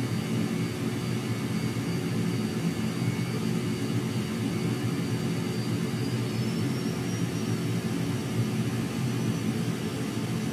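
Jet aircraft engines running steadily, with a thin high whine that climbs slightly about six seconds in.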